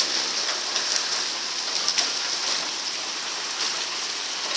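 Heavy rain falling steadily, a dense even hiss with many separate drops splatting sharply on hard surfaces.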